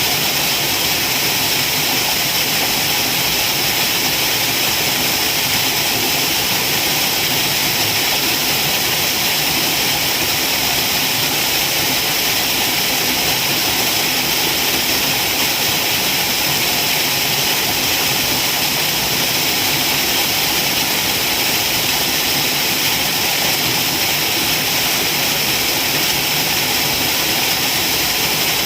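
Waterfall: a steady, unbroken rush of falling water, a constant hiss heaviest in the high range.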